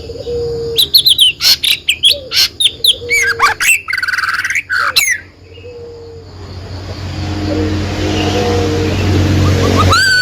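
A songbird singing a fast run of loud, sharp chirps and warbled notes for about four seconds, then stopping. After it, a low rumbling noise swells steadily toward the end.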